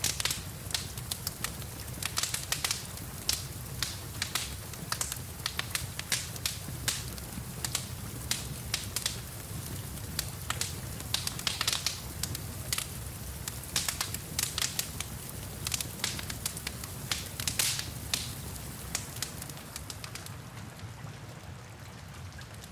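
Wood fire crackling, with frequent sharp pops and snaps over a steady hiss and low rumble of rain. The popping thins out near the end.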